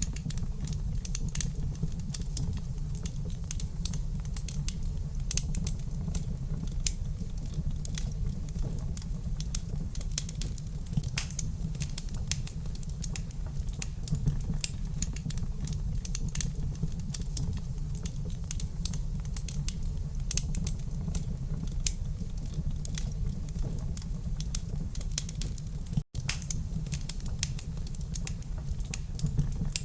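Wood fire crackling in a fireplace: a dense, irregular stream of small sharp pops and snaps over a steady low rumble of the burning fire. The sound cuts out for a split second about 26 seconds in, then carries on.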